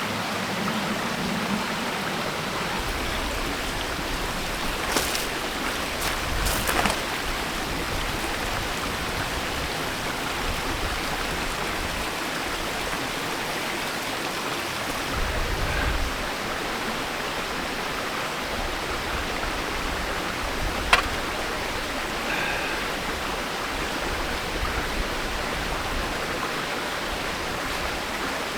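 Steady rush of a mountain stream's flowing water, with a few brief clicks on top, the sharpest about three-quarters of the way through.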